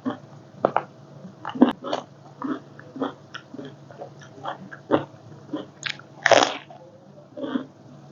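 A person biting and chewing crunchy food, a crunch roughly every half second, with one longer, louder crunch about six seconds in.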